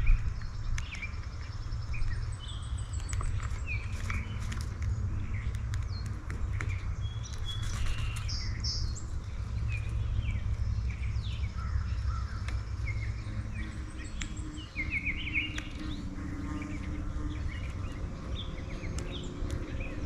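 Several backyard birds chirping and calling in short, scattered notes, over a steady low rumble.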